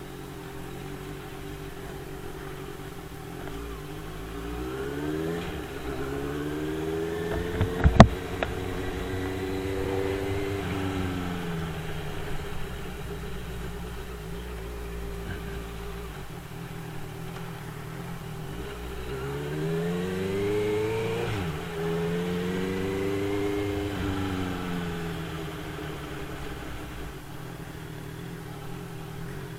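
Motorcycle engine heard from on the bike as it runs along, its revs climbing and falling back twice, about five seconds in and again about twenty seconds in. A sharp knock sounds about eight seconds in.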